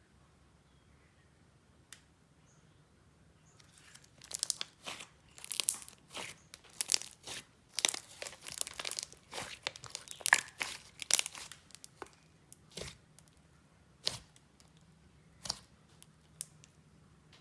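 Jelly slime being stretched and squeezed by hand, crackling with rapid pops of trapped air bubbles. The crackling starts a few seconds in, runs densely for several seconds, then thins to a few single pops.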